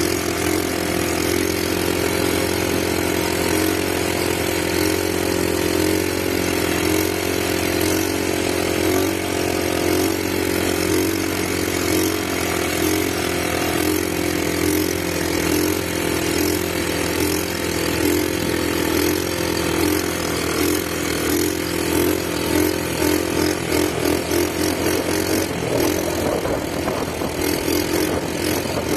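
ATV engine running steadily while riding, its note turning choppy and uneven near the end.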